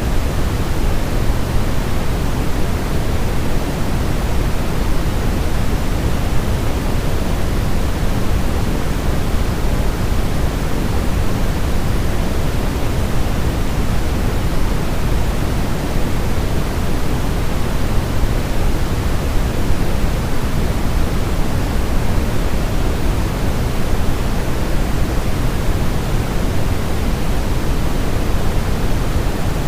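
Continuous synthetic white noise, steady and unchanging: an even hiss with its weight in the low end.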